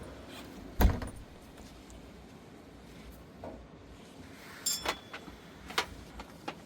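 A heavy thump about a second in, followed later by a few lighter, sharper knocks and clicks.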